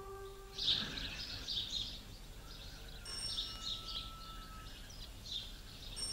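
Faint birdsong: small birds chirping in short repeated phrases. A held harmonica note from the music dies away in the first second.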